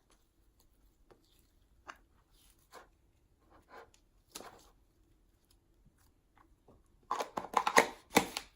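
Slime being handled and pulled from its tub into a mixed batch: scattered soft sticky clicks and crackles, then a denser, louder run of crackling about seven seconds in.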